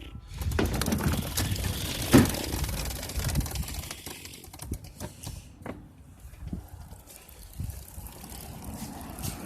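Knocks, rattles and rolling rumble of a small dirt bike being moved by hand, with one sharp knock about two seconds in and lighter scattered clicks later.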